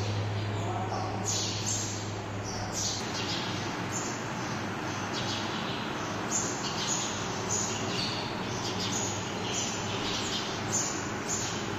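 Small birds chirping: short, high chirps coming irregularly, several every second or two, over a steady background noise. A low hum fades out about three seconds in.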